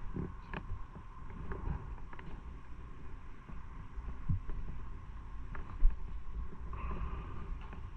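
Motorcycle running at low speed: a low, uneven engine rumble with wind on the microphone and a few scattered knocks.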